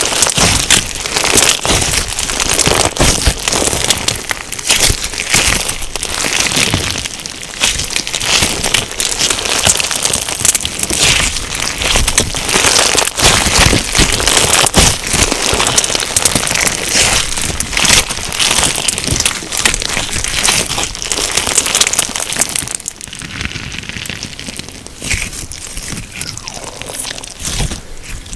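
Crunchy slime packed with sugar beads (tiny plastic beads) being squeezed and kneaded by hand, giving a dense, continuous run of crackles and crunches. It gets quieter for the last few seconds.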